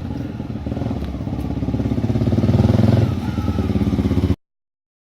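Motorcycle engine running with a rapid, even firing pulse. The revs rise to a peak about two to three seconds in, then ease back before the sound cuts off abruptly.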